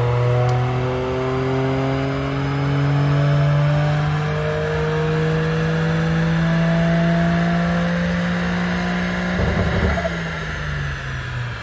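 Toyota GR Yaris's turbocharged three-cylinder engine, breathing through a stainless-steel exhaust with a resonated GPF-delete pipe, pulling in gear on a rolling-road dyno, its note climbing steadily for about nine seconds. The note then breaks up briefly and the revs fall away as the throttle is lifted at the end of the run.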